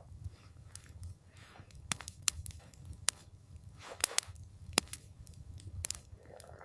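Campfire crackling: irregular sharp pops and snaps of burning wood, about eight in a few seconds, over a low steady rumble of soft wind.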